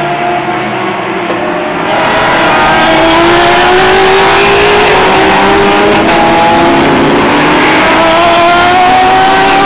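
Several race car engines running at high revs, their pitches climbing steadily as the cars accelerate. About two seconds in the sound gets louder and fuller.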